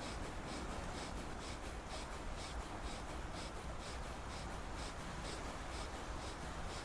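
Kapalbhati pranayama breathing: rapid, forceful exhalations snorted out through the nose, each pushed by a snap of the belly, repeating in a quick steady rhythm.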